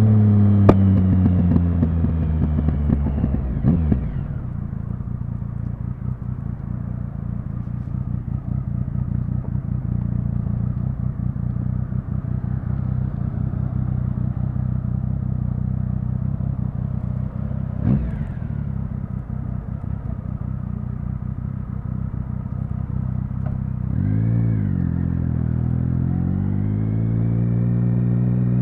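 Triumph Speed Triple 1050's three-cylinder engine slowing down, then idling for about twenty seconds. About 24 s in it gets a quick throttle blip, and near the end it rises in pitch as the bike pulls away.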